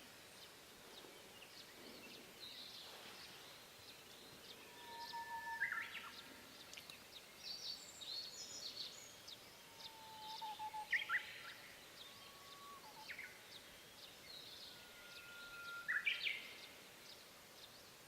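Wild songbirds singing: several songs made of a long level whistle ending in a quick upward-sweeping flourish, with higher twittering between them, over a faint steady hiss of open air.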